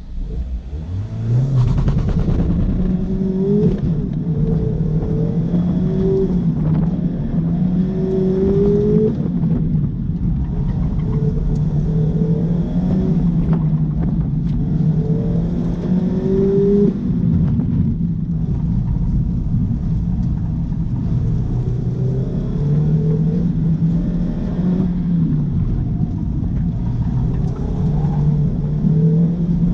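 Mazda MX-5 Miata's four-cylinder engine under hard acceleration in an autocross run. It climbs in pitch over the first couple of seconds off the launch, then rises and falls over and over as the driver works the throttle through the course.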